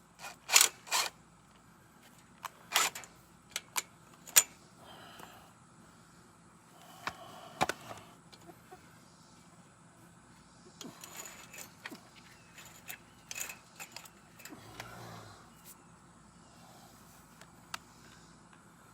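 Scattered sharp metallic clinks and knocks, several in quick succession in the first few seconds and again a little past the middle: hand tools and metal hardware being handled during repair work.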